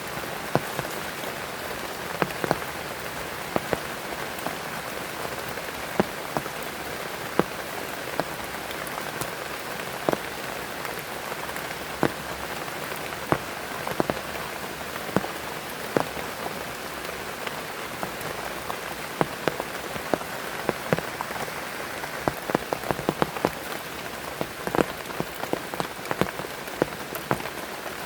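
Heavy rain falling steadily, with many sharp drops striking close to the microphone, coming thicker near the end.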